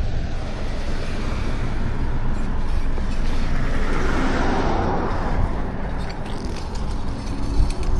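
Traffic noise from a bike ride: a car passing close by, loudest about four to five seconds in, over a steady low rumble of wind on the microphone.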